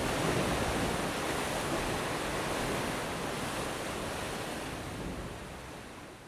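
Sea waves washing on the shore: a continuous, even rush of surf that fades away over the last couple of seconds.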